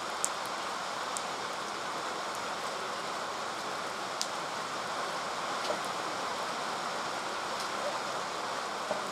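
Steady hiss of rain falling on the forest, with a few brief sharp ticks now and then.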